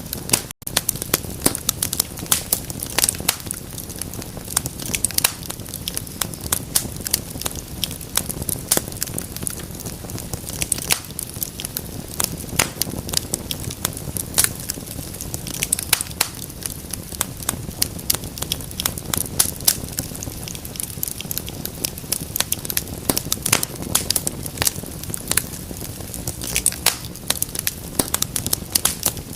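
Wood fire crackling in a fireplace: a dense, irregular stream of sharp pops and snaps over a steady low rush of flame, with a momentary cut-out about half a second in.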